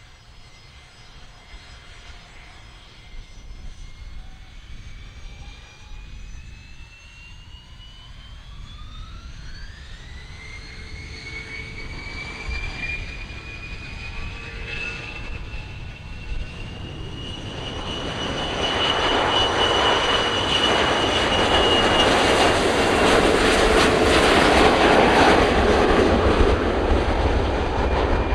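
Jet airliner's engines spooling up for takeoff, with a whine that rises in pitch and then holds, followed by the engine noise swelling into a loud roar as the aircraft rolls down the runway.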